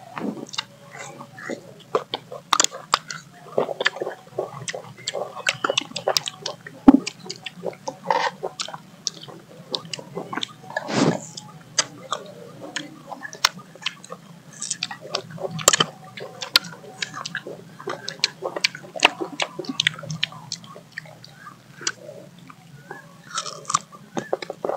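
People biting and chewing slices of mango close to the microphone: irregular mouth clicks and smacks throughout, with a few louder bites.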